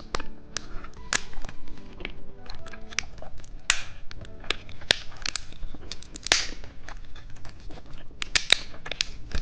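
Close-miked eating of soft gummy candy: irregular sharp wet clicks and smacks of chewing, with a few short rustling hisses.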